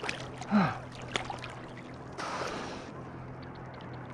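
Water lapping and splashing around a swimmer beside a jet ski, with a brief louder splash a little after two seconds in.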